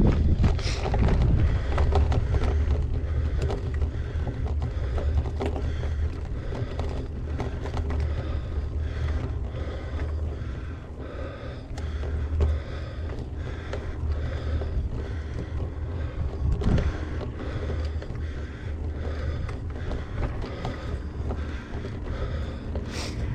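Gravel bike being ridden over rough ground, with frequent short knocks and rattles from the bike and tyres, under a steady low rumble of wind buffeting the camera microphone.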